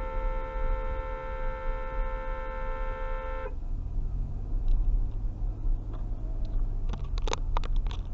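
Car horn held steadily for about three and a half seconds, then cut off; after it a low steady vehicle rumble, with a few short sharp sounds near the end.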